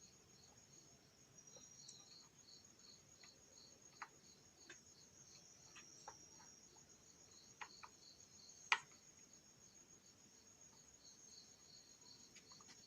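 Faint cricket chirping, an even high pulsing at about three chirps a second, with a few soft clicks scattered through it and one sharper click nearly nine seconds in.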